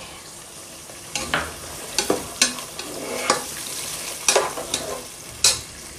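Potatoes, carrots, green beans and peas sizzling in hot oil in a pot while a perforated steel ladle stirs them, with about eight sharp scrapes and knocks of the ladle against the pot.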